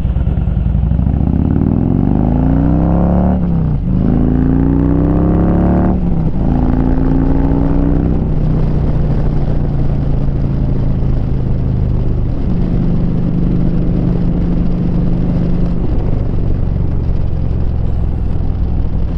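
Harley-Davidson Street Glide's 96 cubic inch V-twin running through a Rinehart 2-into-1 exhaust while riding. The engine note rises twice as the bike accelerates, with an upshift about three and a half seconds in and another about six seconds in, then settles into a steady cruise.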